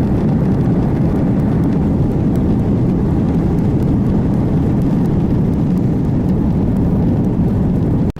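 Loud, steady roar of jet airliner engines that cuts off abruptly near the end.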